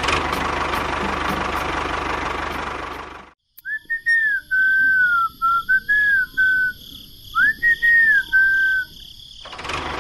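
A steady noisy rumble that cuts off abruptly about three seconds in, followed by a short whistled tune: a single clear tone gliding up and down in several phrases.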